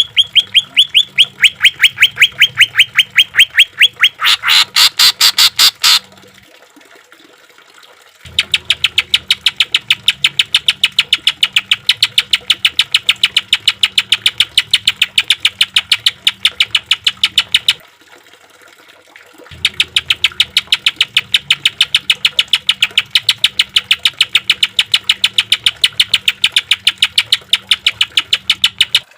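Cucak ijo (green leafbird) singing in long runs of rapid, evenly repeated sharp notes, several a second: the rapid-fire 'tembakan' phrasing. There is a louder, harsher stretch about four to six seconds in, and the runs stop twice for about two seconds each, early on and again about two-thirds of the way through.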